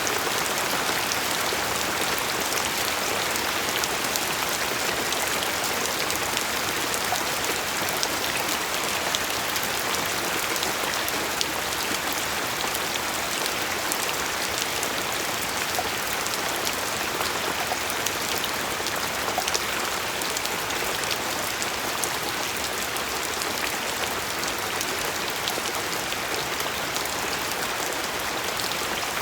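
Steady rain falling and pattering on a surface, with scattered individual drops ticking through an even hiss.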